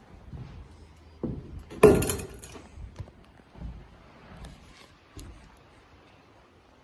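A series of knocks and clatter from hard objects being handled, with one loud, sharp bang about two seconds in and a few lighter knocks after it.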